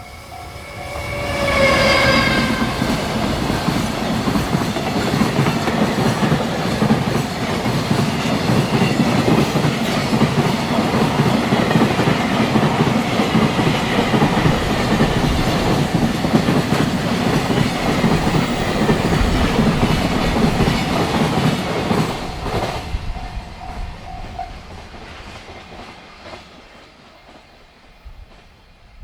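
Freight train horn sounding as the train approaches, its pitch dropping as the locomotive passes. Then the locomotive and a long string of container wagons pass close by, with wheels clattering over the rail joints, for about twenty seconds before fading away.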